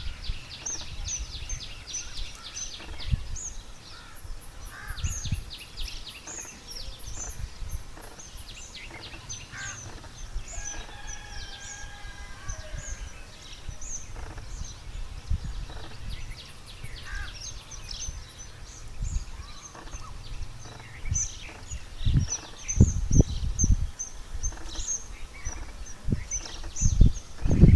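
Birds chirping: short high-pitched calls repeated over and over, with a quick rapid run of them in the first couple of seconds. There is a low rumble underneath, with a few strong low thumps near the end.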